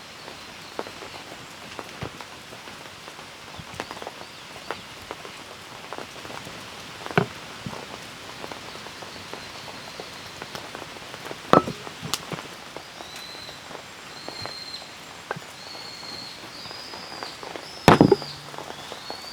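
Steady rain falling, with scattered drips and a few louder knocks. In the second half a bird calls over the rain with a run of short, high chirps, about one a second.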